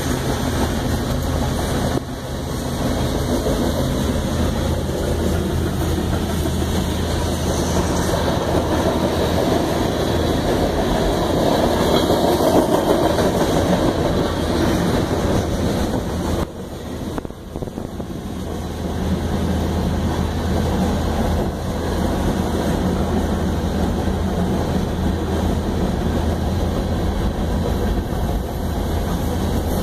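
Freight train of tank cars and covered hopper cars rolling steadily past, the steady rumble of wheels on rail, heard from inside a vehicle whose engine idles with a low hum underneath. The rumble dips briefly a little past the middle.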